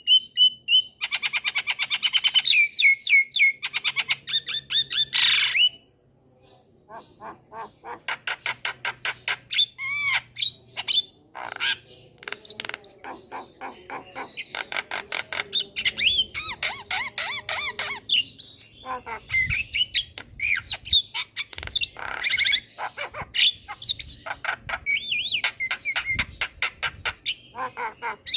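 Javan myna singing a long, varied song of fast rattling chatter, harsh squawks and short whistled notes, with a brief pause about six seconds in.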